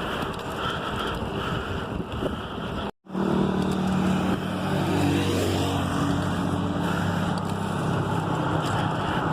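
Wind noise on the microphone during a road ride; after a short break about three seconds in, a vehicle engine runs steadily under the wind noise.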